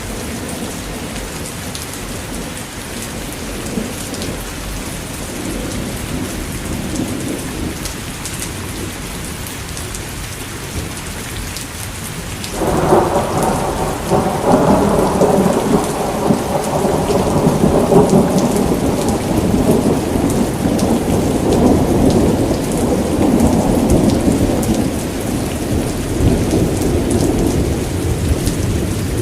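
Steady rain falling in a thunderstorm. About halfway through, a louder rolling rumble of thunder breaks in suddenly and keeps going.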